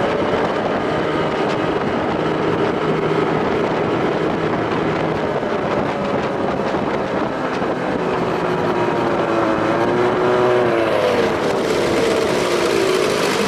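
1993 Evinrude 25 hp two-stroke outboard, built up with a bigger intake, running under way on the boat. The engine note is steady at first, then its pitch sags and climbs again over the last few seconds as the speed changes.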